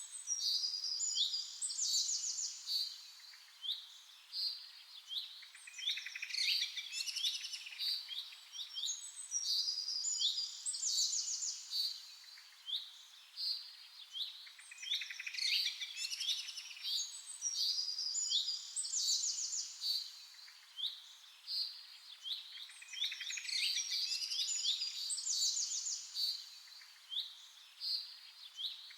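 Several songbirds chirping and trilling at once, short high notes and quick trills overlapping in waves of song that swell and ease off every few seconds.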